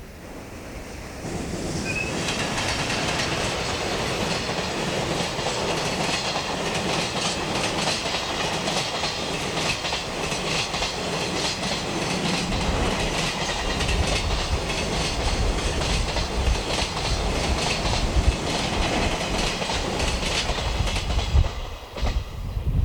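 Container freight train hauled by an EH500 electric locomotive passing at speed, the wheels clicking steadily over the rail joints as the wagons go by. It comes in suddenly about a second in and falls away near the end.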